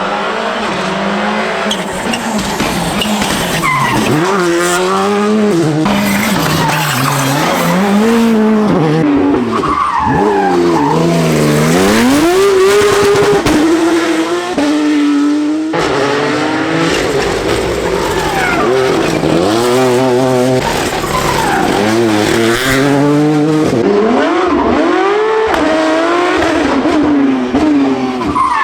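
Rally car engines revving hard at close range, the note repeatedly climbing and then dropping sharply as the cars accelerate, change gear and brake on a rally stage.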